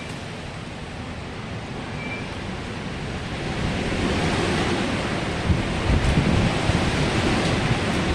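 Strong wind blowing in gusts, rising louder about halfway through, with low rumbling buffets of wind on the microphone.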